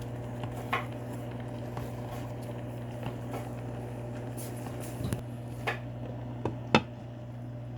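A steady low hum runs throughout, with a few light clicks and taps of kitchenware scattered through it, the sharpest a little before the end.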